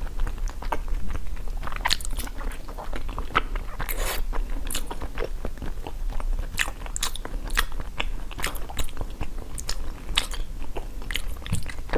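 Close-miked mouth eating sounds: biting and chewing with irregular crisp crunches and wet clicks, as in ASMR eating of jelly and frozen treats.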